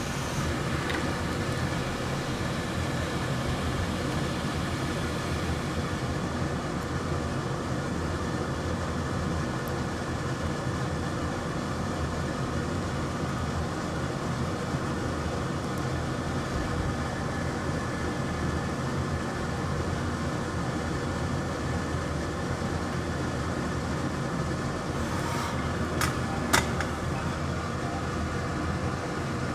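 Steady whirring hum of an electric fan on a soldering repair bench, with a couple of sharp ticks near the end.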